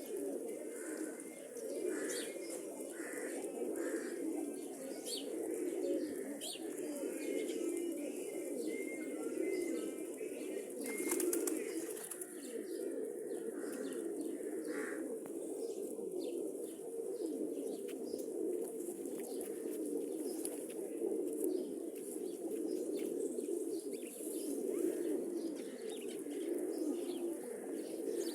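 Several domestic pigeons cooing continuously, their overlapping low coos forming a steady murmur, with occasional small clicks and chirps.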